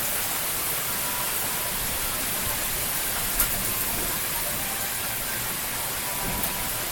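Steady rain falling, an even hiss, with a single sharp tap of a drop about halfway through.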